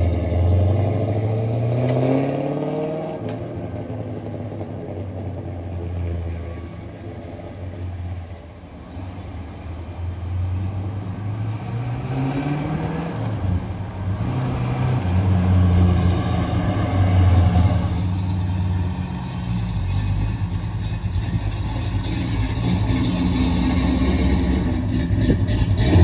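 1968 Pontiac GTO's V8 engine running while the car is driven. The revs drop in the first couple of seconds, climb again midway through, and then hold fairly steady.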